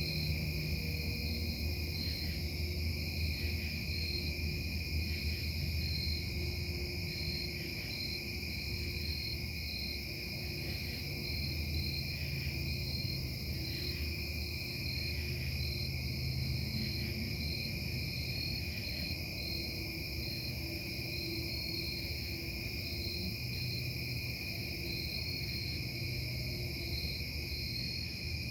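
Industrial noise from the Casting Solutions foundry: a low, continuous rumble and hum that swells and eases, with steady high-pitched whines above it, one of them pulsing.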